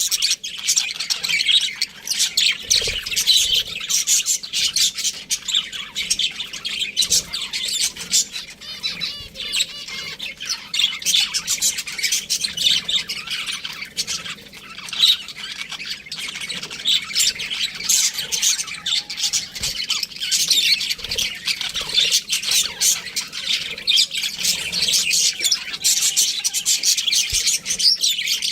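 Budgerigars chirping and squawking nonstop: many rapid, high, overlapping calls.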